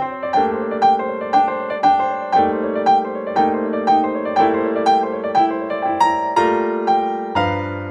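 Background piano music: evenly paced notes, about two a second, over held chords.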